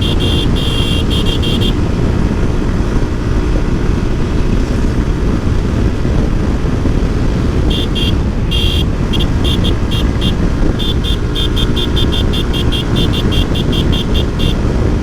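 Motorcycle ridden at high speed, with a steady rush of wind over the microphone and the engine running underneath. Short high-pitched beeps come briefly at the start, then again from about halfway in, repeating several times a second.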